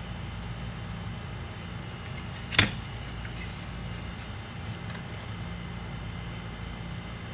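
A steady low hum with one sharp click about two and a half seconds in.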